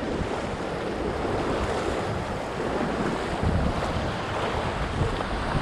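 Fast river water rushing through rapids as a steady noise, with wind buffeting the microphone.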